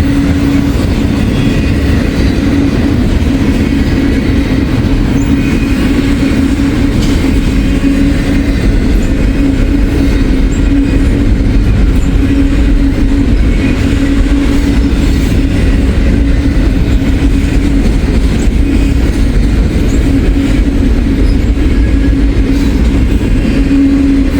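Double-stack intermodal freight cars rolling past close by: a loud, steady rumble of steel wheels on rail with a steady hum.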